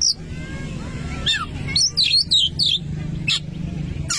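Oriental magpie-robin (kacer) singing: a quick run of varied whistled and chirping notes starting about a second in and lasting about a second and a half, over a steady low hum.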